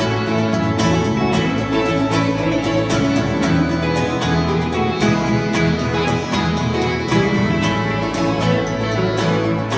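Live band playing an instrumental break in a folk-country song: guitar and fiddle over a steady beat.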